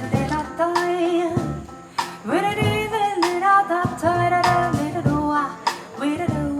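Live jazz band playing: a singer's held, gliding notes over piano, double bass and drums, with regularly spaced drum and cymbal hits.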